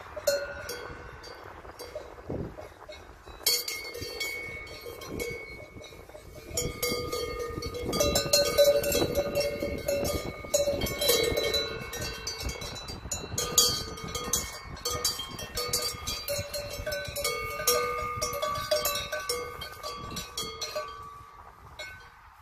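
Metal bells on the necks of cows clanking and ringing irregularly as the cows move their heads, with several bells sounding at once. The clanking grows busier and louder about a third of the way in and eases off near the end.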